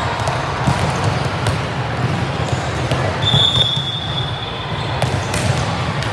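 Ball thuds and bounces on a gym court, with a short high shoe squeak a little past halfway and a murmur of voices in a large, echoing hall.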